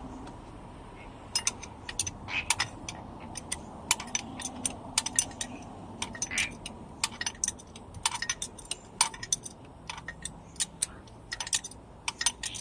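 Steel hand tools clinking and knocking on metal in many short, irregular metallic clinks, typical of spanner work on a Land Rover Defender 2.5 Td's exhaust manifold nuts.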